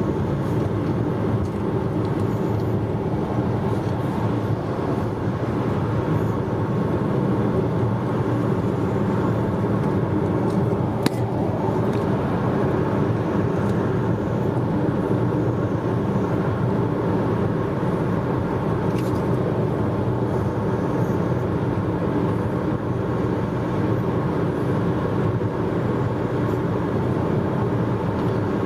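Car driving at steady speed, heard from inside the cabin: an even rumble of engine and tyres on the road, with a single small click about a third of the way in.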